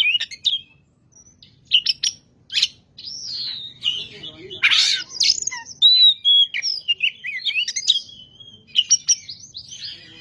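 Oriental magpie-robin (kacer) singing a fast, varied song of whistled notes and chirps, with a harsh rasping note about five seconds in.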